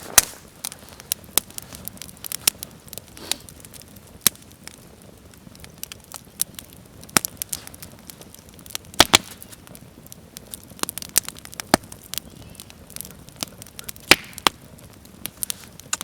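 Wood campfire crackling, with irregular sharp pops every second or so over a low hiss; a few pops, about nine seconds in and near fourteen seconds, are much louder.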